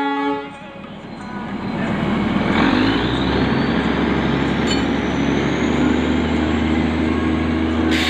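Darjeeling Himalayan Railway toy train on the move behind its diesel locomotive. Rolling and engine noise swells about two and a half seconds in, with a faint whine rising in pitch, and a steady engine hum settles in toward the end. A train horn's last note cuts off at the very start.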